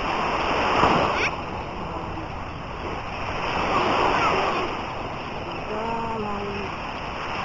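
Sea surf washing in and splashing, swelling about a second in and again about four seconds in; a voice calls out briefly near the six-second mark.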